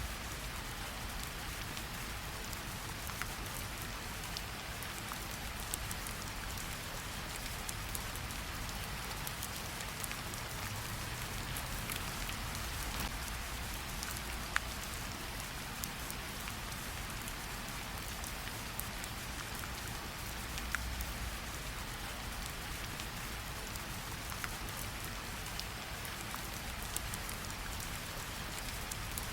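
Steady rain falling, with scattered single drops ticking sharply now and then over the even hiss.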